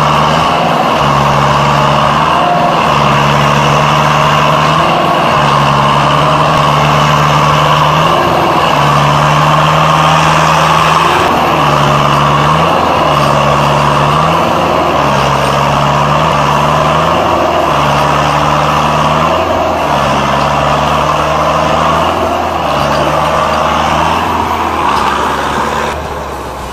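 Tractor engine running loud and steady. Underneath it, a low tone holds and then steps to a new pitch every second or two.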